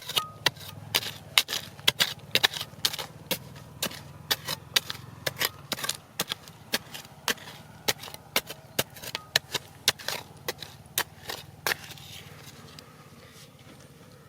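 A hand tool striking rock over and over in sharp, irregular knocks, about two or three a second, stopping about twelve seconds in.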